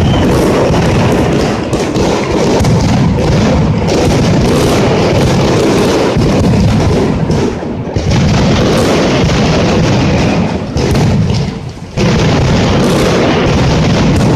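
Mascletà firecracker barrage: a dense, continuous rattle of bangs and booms, easing briefly about eight seconds in and again just before twelve seconds.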